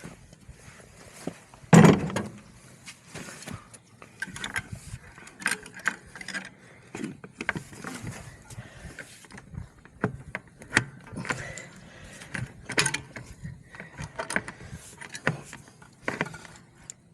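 Irregular metallic clicks, clinks and knocks of fencing wire and hardware being worked by hand, with one heavy knock about two seconds in.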